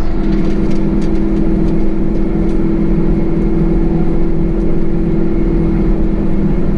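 Small-block Chevy 350 V8 in a 1999 Isuzu NPR cabover truck running at a steady engine speed, exhaust through Flowmaster 40 mufflers, a loud, even drone.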